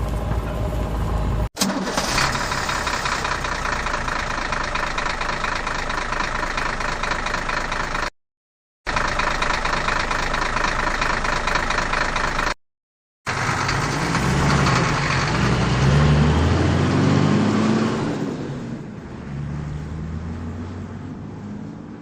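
Vehicle engine running, heard in several short clips separated by sudden breaks and brief silences. In the last clip the engine note rises and falls before fading out.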